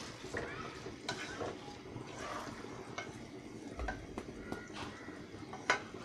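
A spatula stirring chicken pieces through masala in a cooking pot, scraping and clinking irregularly against the pan, with one louder knock near the end.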